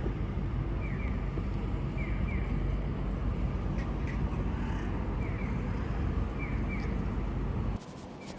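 Italjet Dragster 200's single-cylinder four-stroke engine running through an Akrapovic exhaust, a steady low rumble that stops abruptly near the end. Short paired chirps recur over it about once a second.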